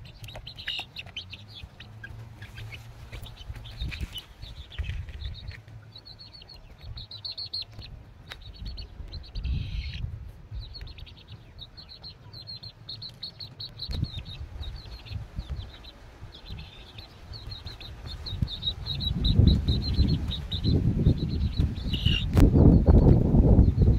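Small birds chirping in quick, high notes, repeated again and again, with a low rumble underneath that grows loud over the last few seconds.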